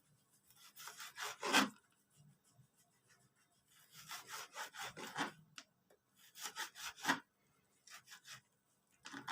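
Knife sawing through frozen liver to cut it into thin slivers, in several short bursts of rasping strokes with pauses between them.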